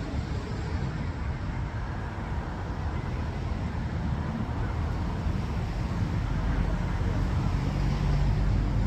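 Steady low rumble of vehicle and traffic noise with a faint hum, growing slightly louder near the end.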